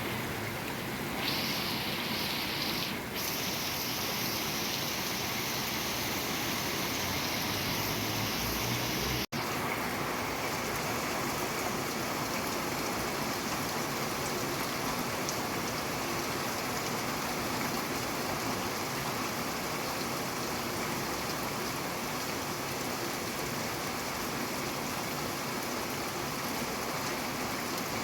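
Steady rain falling, an even hiss. About nine seconds in it cuts out for an instant, and the rain sounds slightly different after the break.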